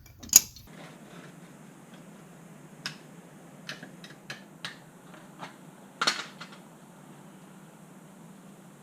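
Scattered metallic clicks and clinks of tools and parts being handled: a sharp one at the start, a run of smaller ones, and a louder clatter about six seconds in, over a faint steady hum.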